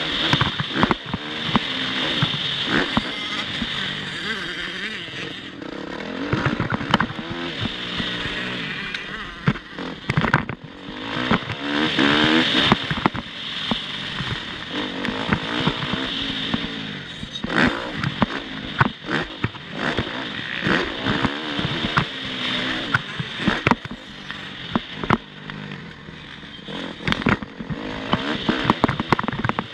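Motocross bike engine revving, its pitch rising and falling again and again as the throttle opens and closes, with wind noise and frequent knocks and rattles over the ride.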